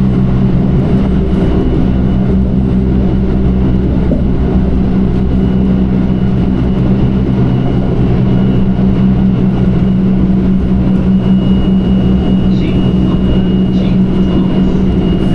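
Electric train running at a steady pace: an even, loud rumble with a constant low hum. A faint thin high whine joins about two-thirds of the way through.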